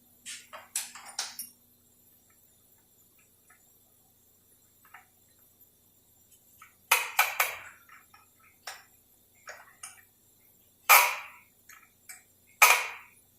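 Metal hand tools clinking and clanking against the shift linkage and case of a Dodge 46RE automatic transmission as the linkage is loosened. The knocks are scattered and irregular, with faint small ticks between them. There are three quick clanks about seven seconds in, and the loudest single clanks come near the end.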